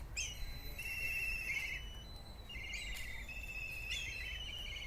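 Black kite calling repeatedly: each call is a short falling whistle followed by a shrill quavering trill of about a second, given about four times.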